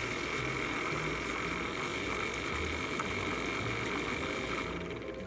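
Steady hissing noise with a faint high tone, over a soft background music bass line; the hiss cuts off near the end.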